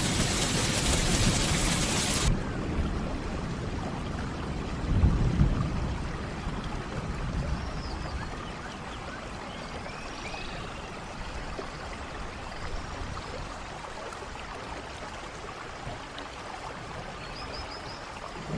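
Rain falling steadily, heavy at first. About two seconds in it changes abruptly to lighter, softer rain, with a low rumble about five seconds in and a few faint high chirps.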